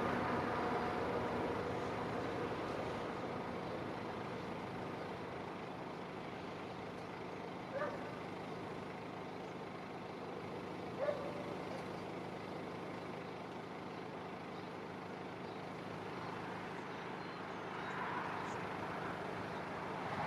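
CSX freight train rolling past: a steady rumble of the cars, with two short sharp squeaks about eight and eleven seconds in.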